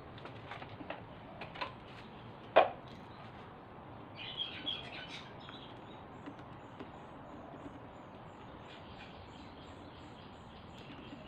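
Light clicks and one sharp knock of stand fan parts being handled during disassembly. Birds chirp briefly about four seconds in.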